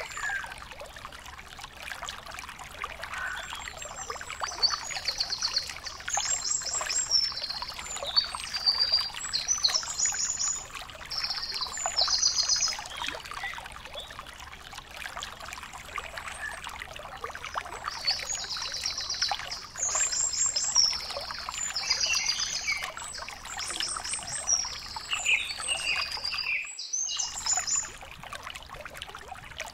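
Small birds chirping in short, high-pitched phrases, in two spells with a lull between, over a steady crackling hiss.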